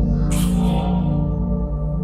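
Experimental electronic ambient drone: many sustained low tones layered over a fast low pulse, with a short hissing swell about half a second in.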